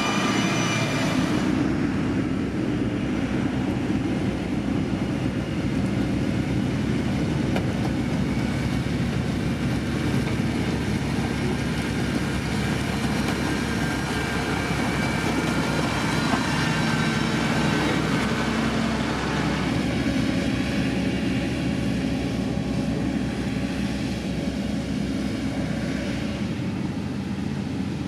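Diesel engine of heavy road-building machinery running steadily, a continuous low rumble; a higher whine over it fades out about a second and a half in.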